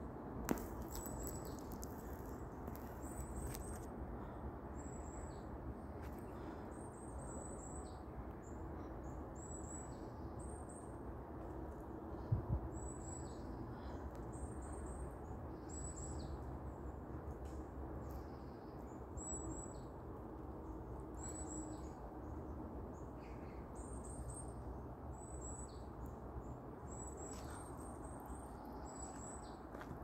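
Small birds chirping, with short high calls repeating again and again over a steady low background hiss of the forest. One brief low thump near the middle.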